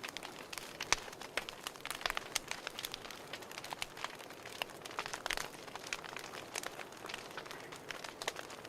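Fireplace wood fire crackling: a soft steady hiss with frequent irregular pops and snaps.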